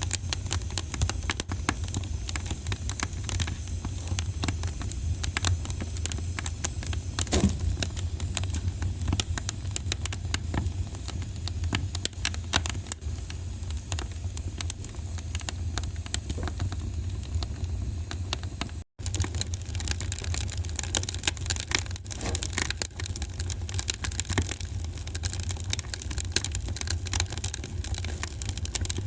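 Wood fire in a fireplace crackling and popping steadily over a low rumble of the flames. The sound briefly cuts out to silence about two-thirds of the way through.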